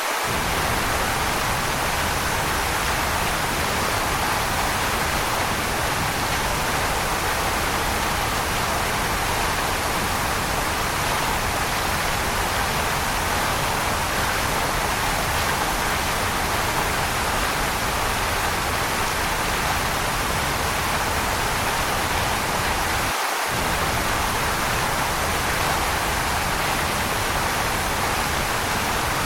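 Waterfall: a steady, even rush of falling water, its low rumble dropping out for an instant about three-quarters of the way through.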